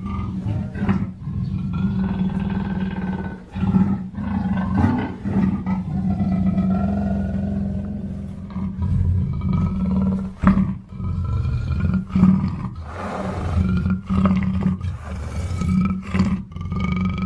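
Black panther growling and roaring in a long run of calls, broken by a few short pauses.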